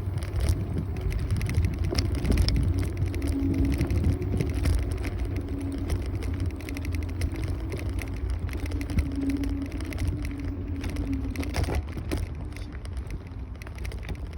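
Kaabo Wolf Warrior 11 Pro electric scooter on the move: a heavy low rumble with a wavering hum, and a steady stream of small rattles and clicks.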